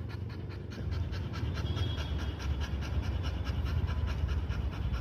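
A dog panting rapidly in a quick, even rhythm.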